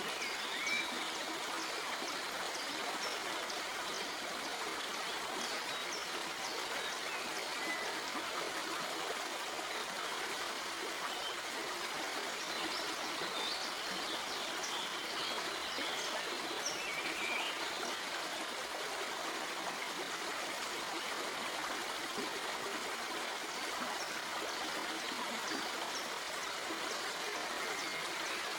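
Stream water flowing steadily over rocks: an even rushing hiss with small trickles and splashes scattered through it.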